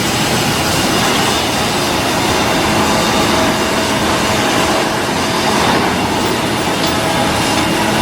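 Loud, steady machinery noise with a few faint steady tones running through it.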